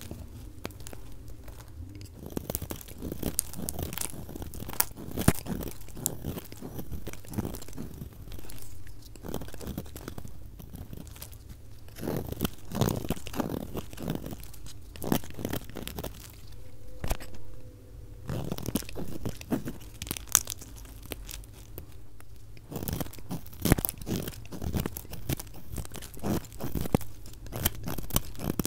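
A blade cutting through soap, making dense, irregular crunching and crackling cuts. The recording is sped up to double speed.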